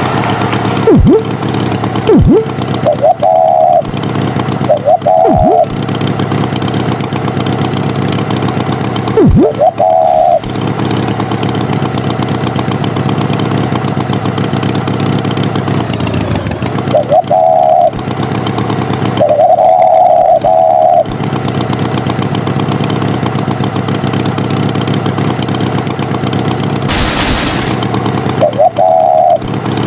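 A vehicle engine running steadily, with short high beeps sounding several times, some in pairs, and a few quick swooping tones that drop sharply and rise back.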